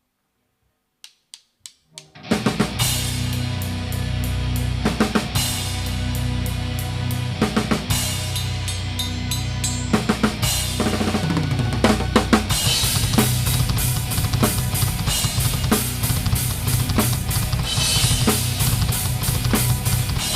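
Four quick clicks count in, then a live band starts a heavy song, with the drum kit loud and close: bass drum, snare and cymbal crashes over bass and guitars.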